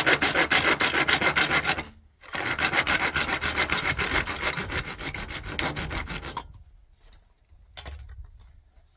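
Hand saw cutting in rapid back-and-forth strokes. It pauses briefly about two seconds in, then resumes and stops about six seconds in. A few faint knocks follow near the end.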